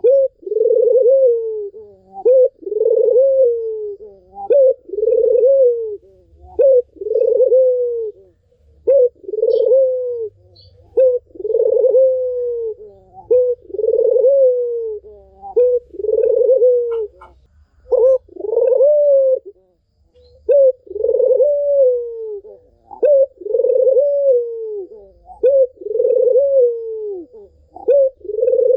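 Barbary dove (puter) cooing in repeated phrases, each a short note followed by a longer rising-then-falling coo, about one phrase every second or so without pause.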